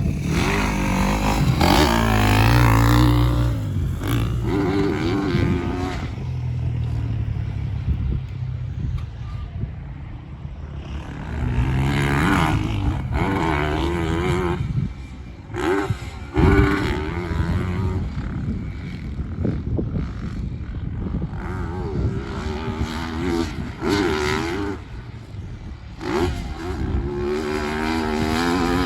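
Motocross bike's engine revving hard around the track, its pitch climbing again and again as the rider accelerates and upshifts, then dropping as he shuts the throttle off into corners and jumps.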